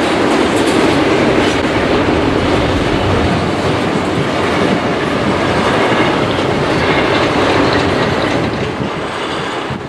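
Double-stack intermodal freight train rolling across a steel trestle bridge: a steady, dense rumble of wheels running over the rails, easing slightly near the end.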